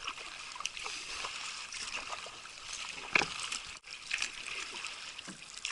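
Water splashing and trickling around a kayak under way, with scattered small splashes and a sharper one about three seconds in.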